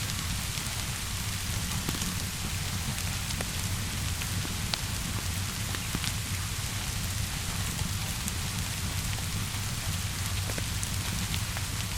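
Steady rainfall with a low rumble underneath and scattered sharp crackles of a wood fire.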